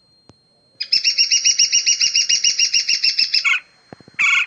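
Woodpecker calling: a rapid, even, high-pitched trill of about ten notes a second that lasts nearly three seconds, then one short call near the end.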